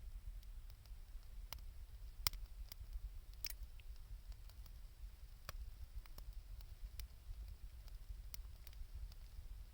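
Wood campfire crackling: scattered sharp snaps and pops about once a second, with one louder pop a little over two seconds in, over a low steady rumble.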